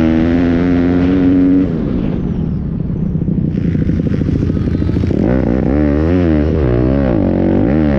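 Pit bike engine running hard: held at high revs for about a second and a half, then backing off, and from about five seconds in rising and falling rapidly several times as the throttle is worked through gear changes.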